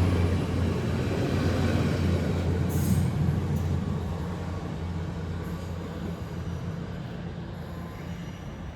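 Class 802 bi-mode train running on its diesel engines, pantograph down, moving off: a steady low engine hum and rumble that fades away as the train leaves.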